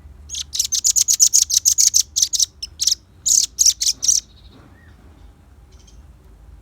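Velvet-fronted nuthatch singing a rapid run of sharp, high notes, about eight a second. The run breaks briefly near the middle and stops after about four seconds.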